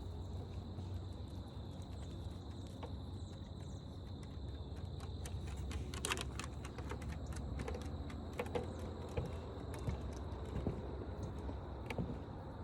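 Outdoor trail ambience: a steady, high insect drone runs over a low rumble, with irregular crunching and clicking footsteps on the trail, busier from about halfway in.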